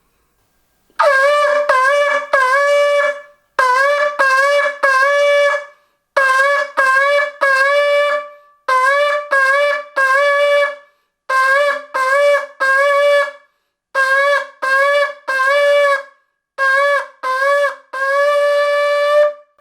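Shofar (ram's horn) being sounded in a run of short blasts, mostly in groups of three, each note scooping up into pitch, finishing with one longer held blast near the end.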